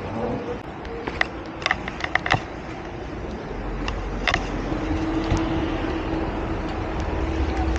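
Steady outdoor street noise with sharp clicks and rattles about a second in and again around four seconds, then a low rumble and a steady hum that carry on to the end.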